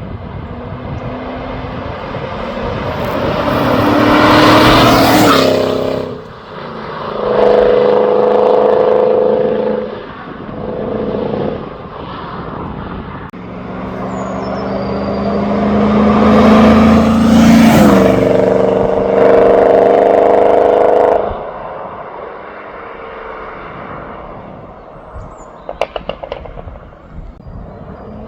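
BMW E30 with a swapped-in 4-litre V8 driving past twice. Each time the engine note builds as the car approaches, is loudest as it passes, then holds steady, stepping revving notes as it pulls away and fades.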